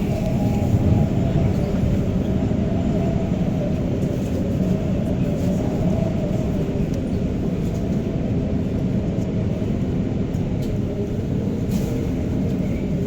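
A REM light-metro train (driverless Alstom Metropolis) running on its line, heard inside the passenger car: a steady rumble of wheels on rail with a faint, even motor whine over it.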